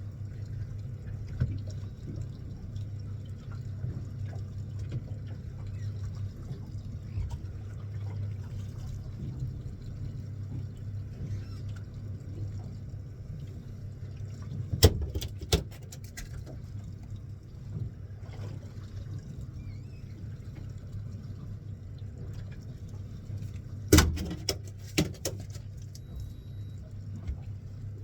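Fishing boat's engine running steadily with a low hum, with water running in the background. Two short bursts of clattering knocks on the boat, about halfway through and again near the end.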